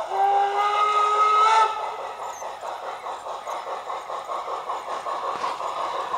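Model steam locomotive (a garden-railway model of HSB 2-10-2T 99 222) sounding a chime whistle of several notes together for about a second and a half, over steady rhythmic exhaust chuffing that runs on after the whistle stops.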